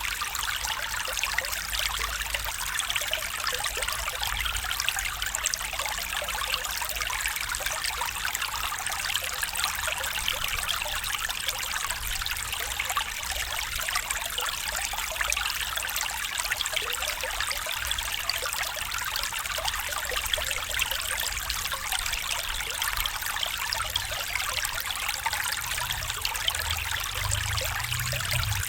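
Small stream trickling and babbling steadily over stones, an even splashing hiss without pause.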